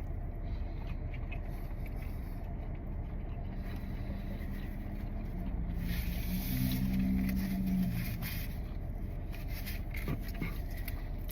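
Steady low vehicle rumble, with a passing vehicle's engine hum that rises from about four seconds in and fades just before eight seconds.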